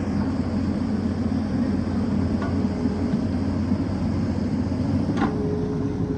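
Excavator's diesel engine running steadily under work. A thin, steady higher tone joins it about five seconds in.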